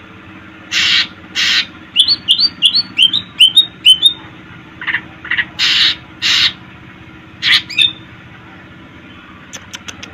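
Green leafbird (cucak ijo) singing: paired harsh, rasping notes, then a quick run of about nine short, sharp whistled notes, then more rasping pairs and a couple of notes near the end.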